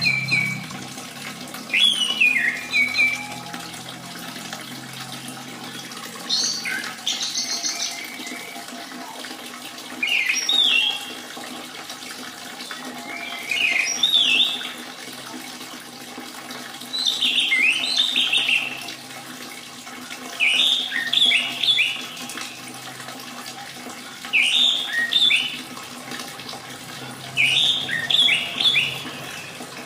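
Orange-headed thrush singing short, rich whistled phrases every three to four seconds over a steady trickle of running water.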